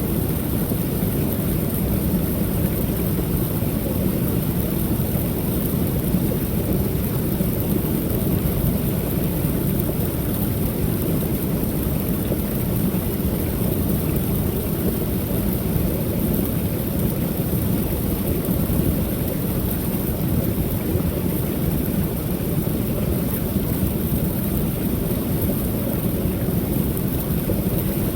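Creek waterfall pouring steadily: a constant, low rushing of falling water that neither rises nor falls.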